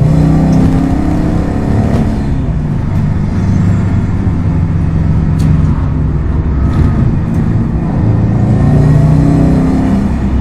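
Subaru WRX STI's turbocharged flat-four engine pulling the car along, its note rising and falling repeatedly as the driver gets on and off the throttle.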